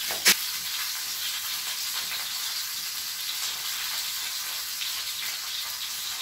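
Chicken kebabs sizzling steadily as they fry in a hot pan on a gas stove, with one sharp click just after the start.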